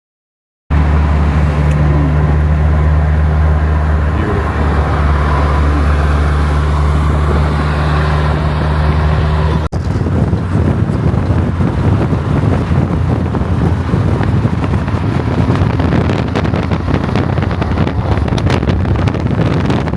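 Car engine idling steadily and loudly close by; after a sudden cut about ten seconds in, a rougher, uneven engine and exhaust rumble with crackling.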